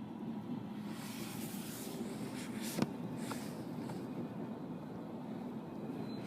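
Tyres hissing on a wet road as a vehicle passes, the spray swelling and fading over about three seconds above a steady low rumble, with one sharp click near the middle.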